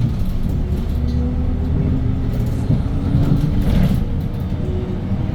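Hyundai Green City city bus with its CNG C6GB engine running under way, heard from inside the cabin as a steady low rumble with faint engine tones.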